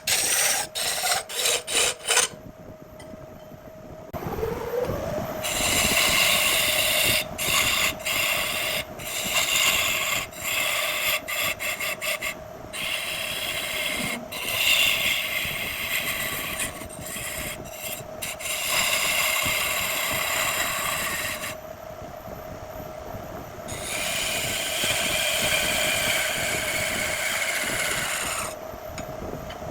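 Wood lathe running with a steady motor hum that rises in pitch as it speeds up about four seconds in, while a turning tool scrapes and cuts the spinning jackfruit wood in long passes. The cutting stops briefly a few times while the lathe keeps running, and a quick run of clicks comes at the start.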